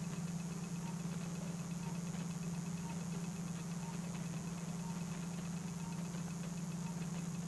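Steady low motor hum from arthroscopic surgical equipment, with faint, evenly spaced blips about once a second.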